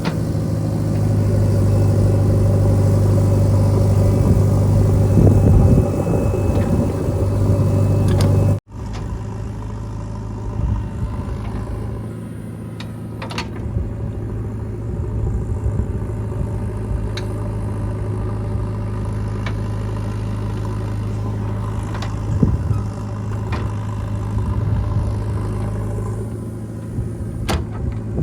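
Heavy diesel machine engine running steadily. About eight and a half seconds in, the sound cuts off abruptly to a quieter engine with a few sharp knocks.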